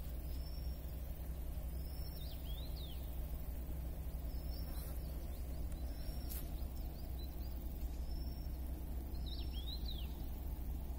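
Small birds calling: a short high note repeated every second or two, and twice a quick swooping phrase, over a steady low rumble.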